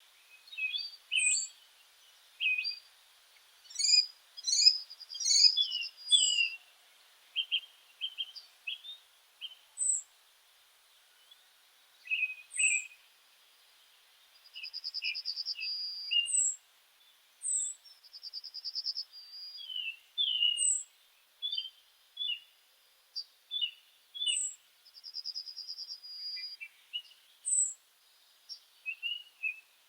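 Small birds singing and chirping: many short high chirps and whistled notes, with quick buzzy trills now and then and a thin high note repeated every couple of seconds.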